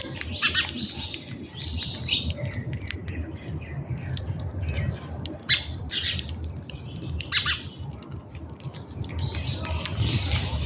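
Several birds squawking and chirping, with sharp harsh calls standing out about half a second in and again around five and a half and seven seconds, over a steady low rumble.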